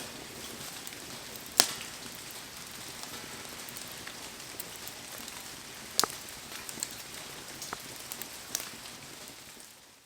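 Heavy rain falling steadily as a steady hiss over a wood bonfire, with a few sharp pops from the burning wood, the loudest about a second and a half in and about six seconds in. The sound fades out near the end.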